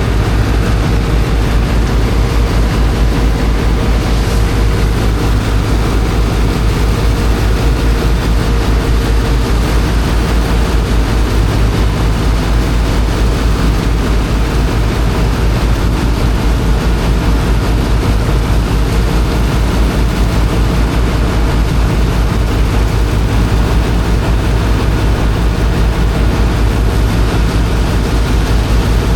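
Engine of a high-pressure water pump running steadily at constant speed, with a fast low pulsing beat and a steady hum, under an even rushing hiss from the water jet.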